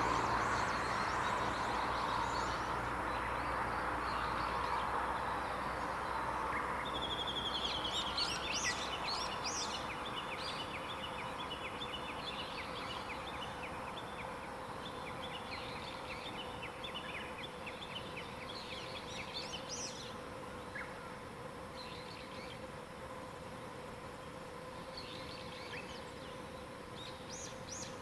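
Wild songbirds singing in bursts of quick, high chirps and trills. In the first several seconds a low rumble fades away, and a faint steady hum runs underneath.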